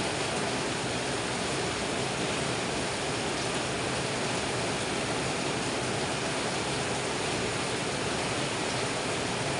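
Heavy rain pouring steadily onto dense tropical foliage, an even hiss that neither builds nor lets up.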